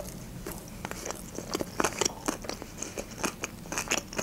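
Close-up chewing of a sushi roll: a run of irregular clicks from the mouth and teeth, several a second, starting about half a second in.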